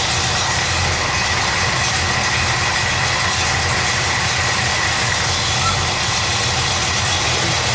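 1957 Chevrolet V8 idling steadily with no revving, just fired up and warming toward operating temperature.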